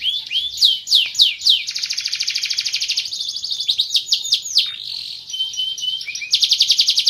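Domestic canary singing a continuous song of high, sweeping notes, broken by fast trills in which one short falling note is repeated many times a second.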